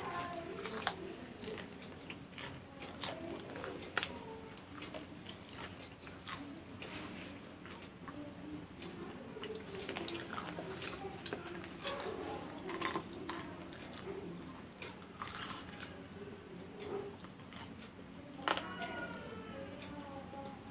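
Popcorn being crunched and chewed in irregular bites, picked up by mouth straight from a sheet of newspaper.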